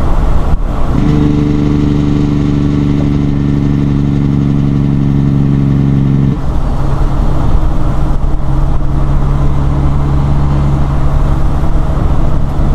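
Detroit 12.7-litre diesel engine of a 1997 Peterbilt 378 running in gear under way, a steady drone at constant revs. A short click comes just before the drone strengthens about a second in. About six seconds in the drone suddenly eases off to a lower, quieter hum.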